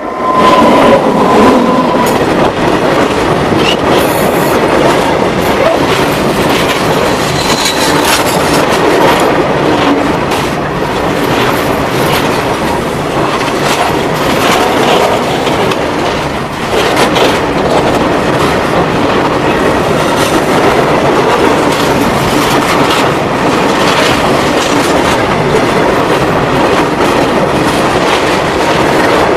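A freight train passing directly over the rails, heard from between them: a WAG-9 electric locomotive, then its wagons, with a loud steady rumble and clatter of steel wheels on the rails. It comes in suddenly as the locomotive arrives overhead, with a short high tone in the first couple of seconds.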